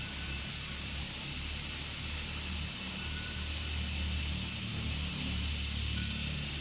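Steady high-pitched drone of insects, with a low rumble underneath; about two-thirds of the way through, a rapid pulsing chirp joins in.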